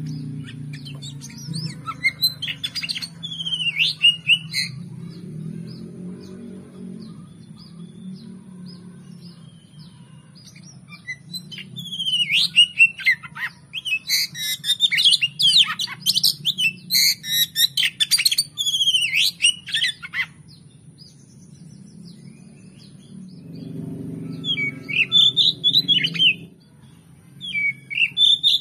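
Oriental magpie-robin (kacer) singing in bursts of rapid, varied whistled and chattering phrases, with pauses of several seconds between bursts. A faint low hum runs underneath.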